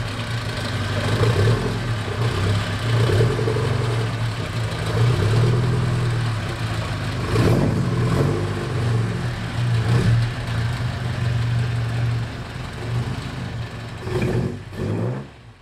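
Alfa Romeo Giulia Super's four-cylinder engine running as the car reverses away, its revs rising and falling with a few short throttle blips. The engine sound drops off near the end.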